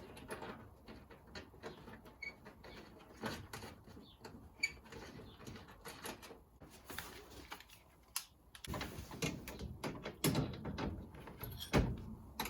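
Scattered clicks and knocks of nuts and bolts being fitted and handled by hand around a panel, at irregular intervals, with a busier, louder stretch of knocking from about nine seconds in.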